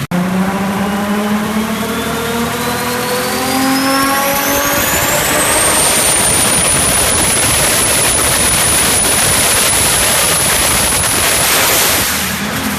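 Big-turbo Toyota Supra accelerating hard: the engine note climbs steadily in pitch for about five seconds while a high turbo whistle rises with it, then the car runs loud at high revs with the whistle held steady until it eases off near the end.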